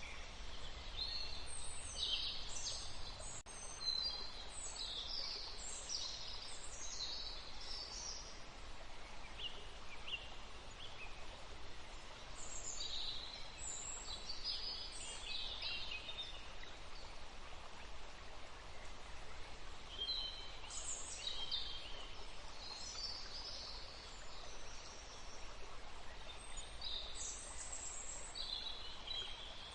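Several songbirds chirping and trilling over a steady forest hiss, the songs coming in clusters with lulls of a few seconds between them.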